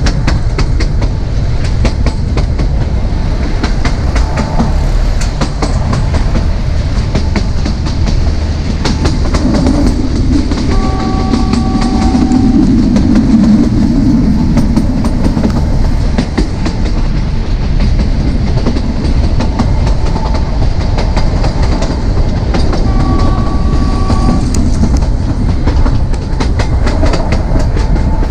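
Narrow gauge train coaches running on jointed track, with a steady rumble and a rapid clickety-clack of wheels over rail joints. The diesel locomotive's two-note horn sounds briefly twice, about a third of the way in and again near the end.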